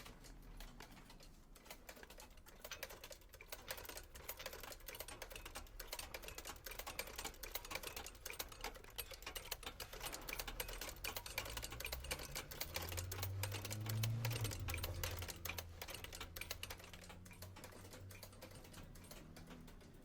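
Sewing machine stitching: a fast, even run of needle-mechanism clicks over a low motor hum, which rises in pitch and gets louder about two-thirds of the way through as the machine speeds up.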